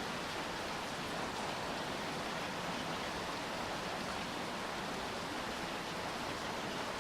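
Rain falling steadily, an even hiss with no single drops or other events standing out.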